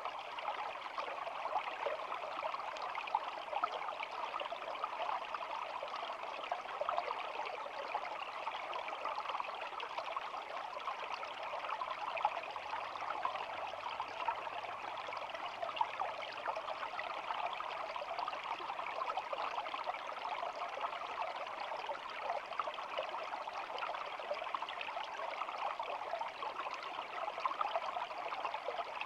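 Stream water babbling and trickling over stones, a steady, even flow.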